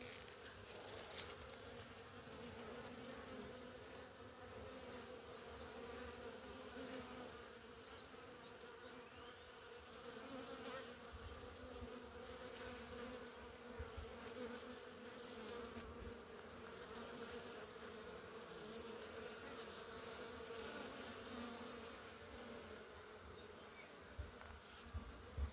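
Many honeybees in flight around a beehive, making a steady, continuous buzzing hum.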